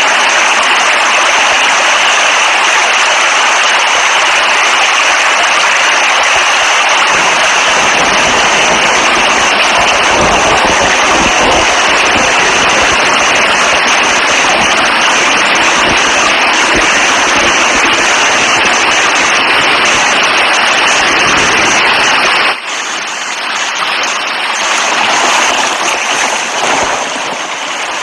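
Heavy rain pouring in a loud, steady hiss, with a deeper rumble added from about seven seconds in. About twenty-two seconds in, the sound cuts suddenly to a quieter, lighter rain.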